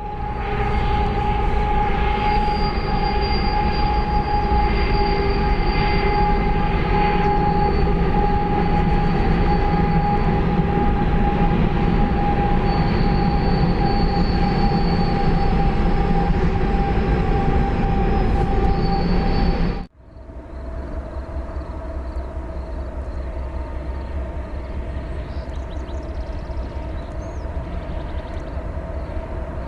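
Freight train cars rolling past on the rails, with steady squealing tones from the wheels over the rolling noise. About two-thirds of the way through the sound cuts off suddenly, and a quieter passing train follows.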